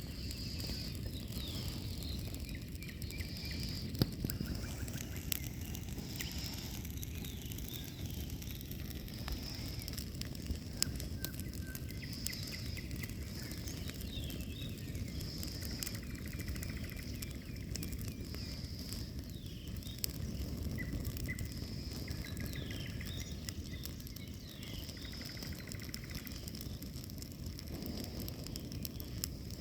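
Campfire burning, with scattered sharp crackles and pops over a steady low rush, one pop standing out about 4 s in. Songbirds sing short repeated phrases every couple of seconds.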